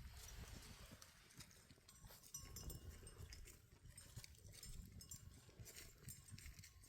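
Faint sounds of a herd of livestock moving about, with scattered light clicks.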